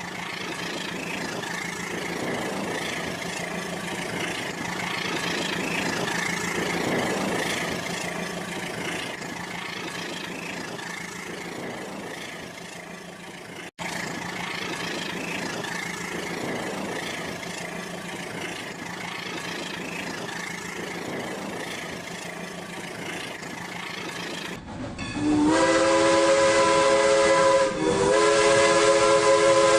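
Toy train's electronic steam sound effect playing with a steady hiss, then about five seconds before the end a louder whistle sound effect of several steady tones together.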